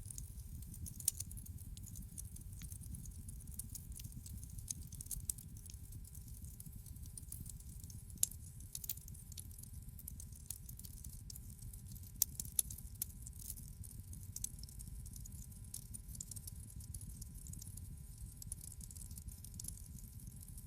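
Wood fire in a fireplace crackling, with scattered sharp pops and snaps over a steady low rumble of burning.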